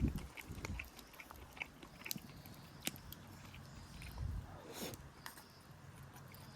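A person biting and chewing food close to the microphone, with scattered short crunchy clicks.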